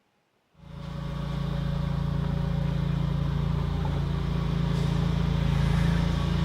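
A steady low droning hum fades in about half a second in and holds.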